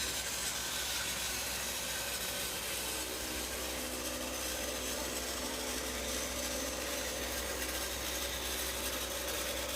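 Battery-powered Trackmaster toy engine running with a steady whir from its small motor and gears, pulling two coaches along plastic track.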